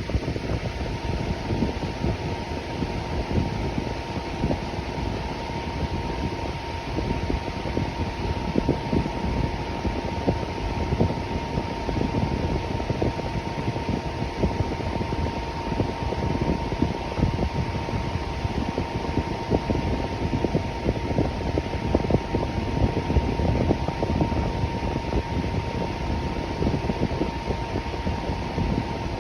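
Electric fan running steadily: a continuous rush of moving air with a faint steady hum.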